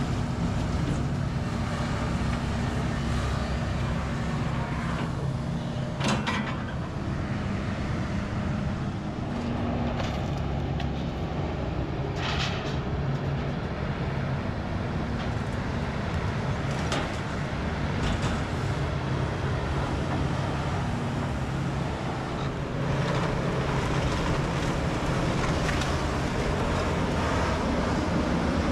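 Kobelco SK210 hydraulic excavator's diesel engine running steadily under load while it crushes house demolition debris. Crunching and cracking of broken material comes through, with several louder crunches, the clearest about 6, 12 and 17 seconds in.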